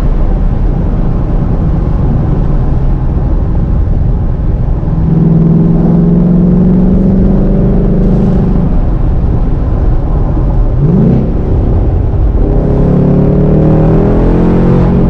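2019 Ford Mustang GT's 5.0-litre V8 on its factory exhaust, rumbling while driving. About five seconds in the engine note steadies into a held drone, rises sharply for a moment near eleven seconds, then climbs slowly again as the car accelerates near the end.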